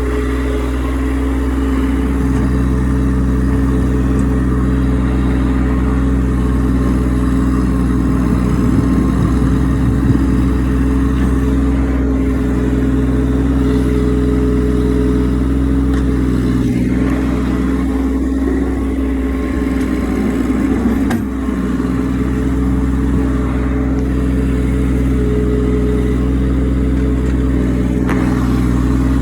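Massey Ferguson tractor engine running steadily at a constant speed, with a couple of brief knocks and dips in its sound about two-thirds of the way through.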